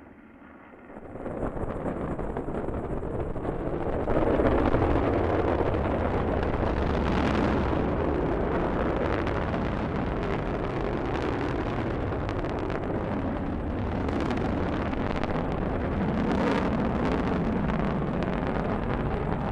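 Delta II rocket lifting off, heard from the ground: a deep, steady rumble from its engines that builds about a second in, grows louder around four seconds and then holds.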